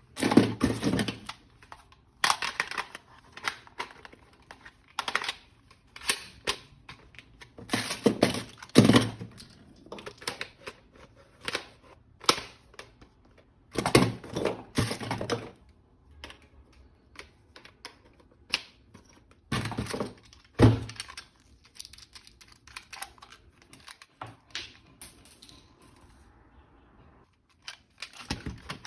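Hands handling plastic toy parts and packaging: irregular clicks, knocks and rustles, with louder clusters of clatter every few seconds.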